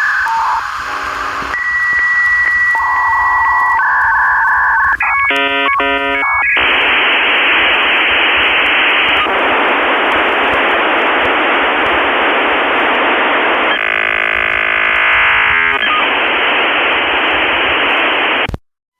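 Electronic beeps and warbling tones, then a long loud static hiss with a brief warbling stretch partway through, all sounding narrow and thin as if over a phone or radio line; it cuts off suddenly near the end.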